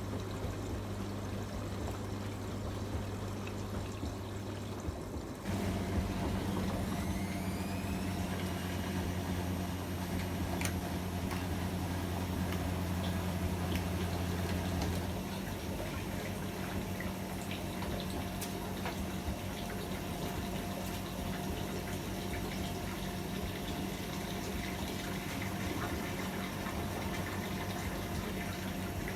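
AEG Öko-Lavamat 73749 washing machine draining: a steady pump hum with water running through it. About five seconds in, the drum motor starts and speeds up with a rising whine that levels off into a steady whir. The lowest hum stops about halfway through, while the drum keeps turning.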